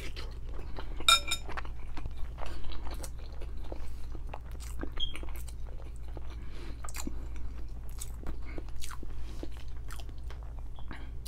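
Close-miked wet chewing and mouth smacking of a person eating a saucy noodle boil, a steady run of small clicks over a low hum. About a second in there is a brief ringing sound, the loudest moment.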